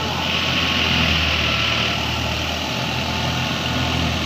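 Heavy machine's engine running steadily at an even speed.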